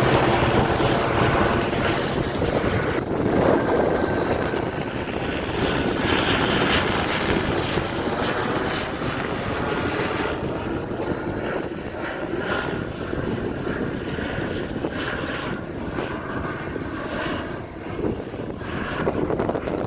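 Sheriff's helicopter flying overhead, a steady rotor and engine noise that eases off somewhat in the second half.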